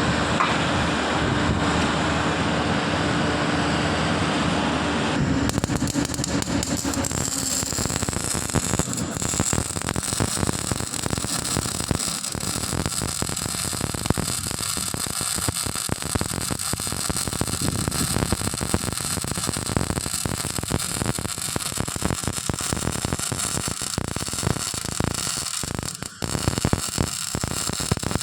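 MIG welding arc crackling steadily, starting about five seconds in and breaking off briefly near the end before resuming. Before the arc strikes, a steady machine hum with noise.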